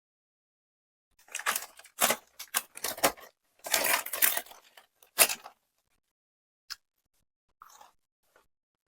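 Close-miked eating and food-handling noises: a dense run of crackly, rustling bursts and clicks for about four seconds, then a few scattered clicks.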